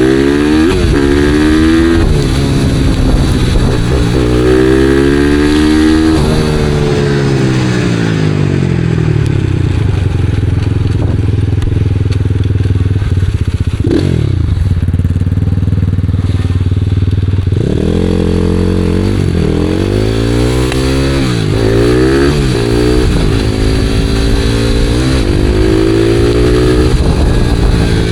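Supermoto motorcycle engine accelerating in rising pulls broken by gear changes, then falling back and running steadily at lower revs with one quick blip of the throttle, before pulling hard again through several quick upshifts.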